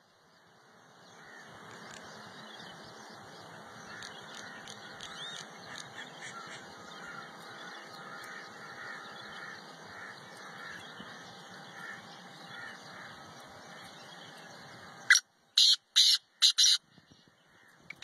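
Black francolin calling: a run of four short, loud, harsh notes about fifteen seconds in. Before that there is a long steady noisy background with faint chirps.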